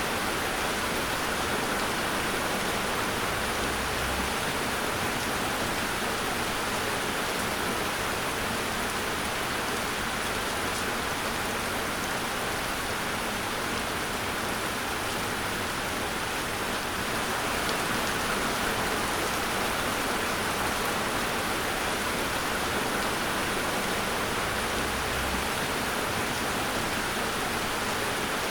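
Steady heavy rain falling on a hard surface: a dense, even hiss of drops.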